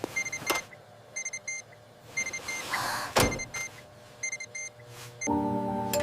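Electronic monitor alarm beeping in quick groups of three or four short, high beeps. A swoosh and a sharp hit come about three seconds in.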